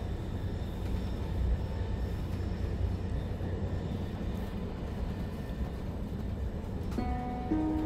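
Steady low rumble of an S-Bahn double-deck DPZ coach running on the line, heard from inside the passenger compartment. About seven seconds in, the onboard chime that precedes the next-stop announcement starts to sound.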